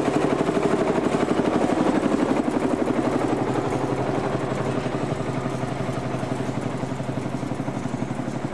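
Vintage tractor engine running with a fast, even beat as the tractor drives past, slowly fading over the last few seconds.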